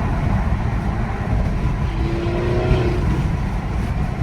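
Car engines running with a steady low rumble, and a brief pitched tone about two seconds in.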